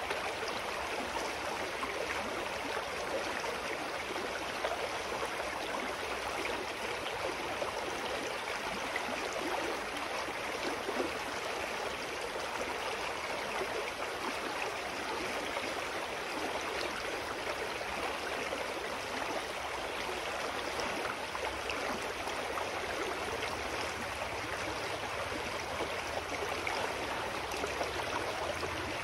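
A clear mountain stream running over rocks, a steady rushing and gurgling of water.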